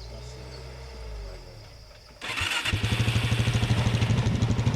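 Nissan 4x4 pickup's engine running. About two seconds in the sound jumps suddenly much louder and closer, becoming a steady, fast throb.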